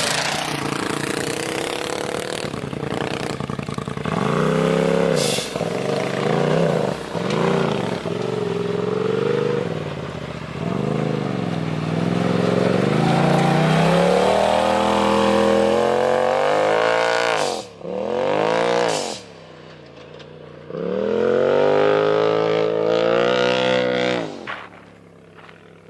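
Polaris RZR Turbo S side-by-side with a straight-piped Agency Power exhaust, its turbocharged twin-cylinder engine revving hard over and over, the pitch climbing and dropping as it accelerates and lifts off. A few short, sharp bursts come between revs.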